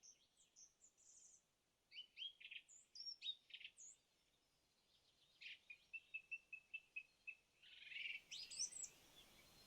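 Faint birdsong: scattered short chirps and whistles, with a quick run of evenly repeated notes about halfway through.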